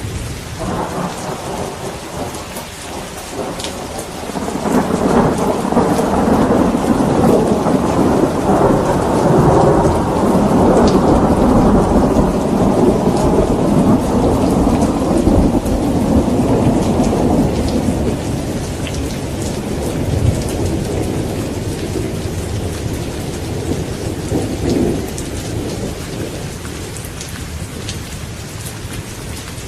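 Steady heavy rain with a long rolling rumble of thunder that builds a few seconds in, holds for about twelve seconds and slowly fades away.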